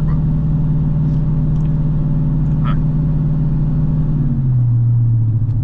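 Chevy Suburban engine running steadily at idle, heard from inside the cabin; its pitch steps down a little about four seconds in.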